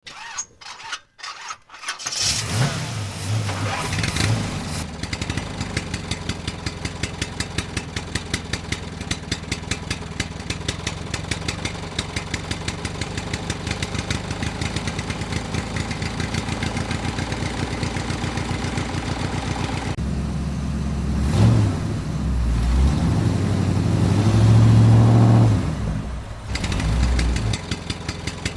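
Small engine of a homemade mini tractor starting after a few short cranks, then running with a fast, even beat. About twenty seconds in it speeds up and runs louder for several seconds before settling back.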